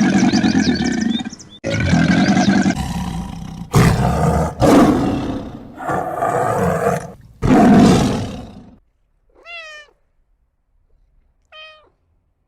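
A big cat roaring, about six long rough roars one after another. Near the end come two short, faint, high calls from a smaller animal.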